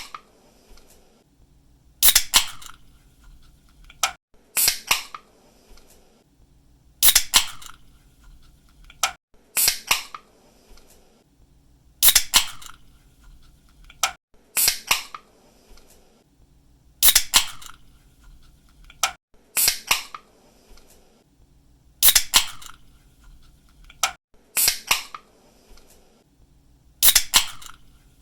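Aluminium drink can being cracked open over and over, about once every two and a half seconds. Each opening is a sharp snap of the pull-tab followed by a short hiss of escaping fizz.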